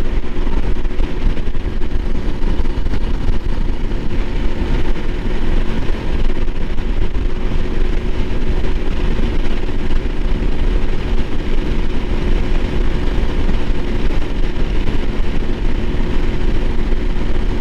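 A Honda CRF300L Rally's single-cylinder engine running at a steady, unchanging pitch while riding, with a heavy rush of wind over the microphone.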